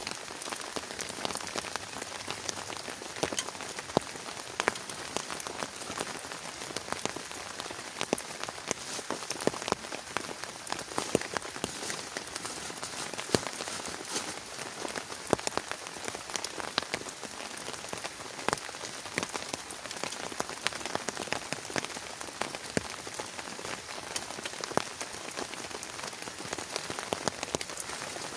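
Heavy rain falling steadily, with many separate drops striking a nearby surface as sharp, irregular taps.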